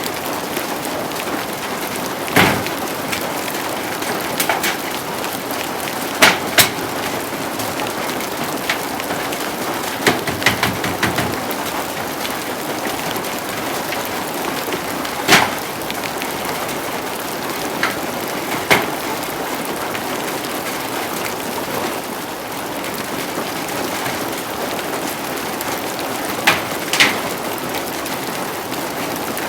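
Heavy rain falling steadily, a dense even hiss, with a few sharp knocks or taps standing out now and then.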